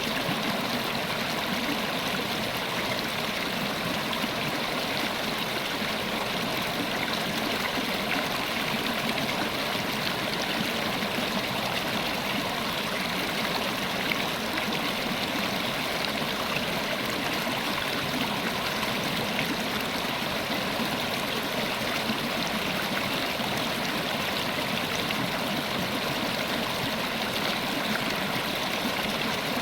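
River water running steadily over rocks, a continuous rushing and gurgling with no change over the stretch.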